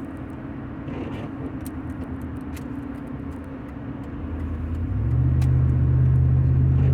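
Car driving, heard from inside the cabin: a steady road and engine rumble. About four seconds in, a low engine drone swells and holds louder.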